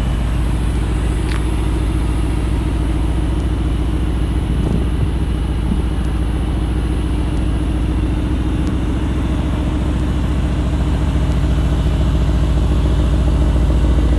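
Mercedes-AMG GT R's 4.0-litre twin-turbo V8 idling steadily, getting slightly louder toward the end.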